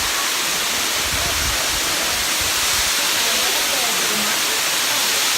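Waterfall of a mountain stream, a steady, loud rushing of falling water.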